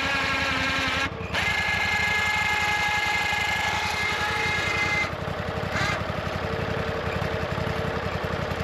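Engine of a custom-made sawmill running steadily, with a fast, even low pulse.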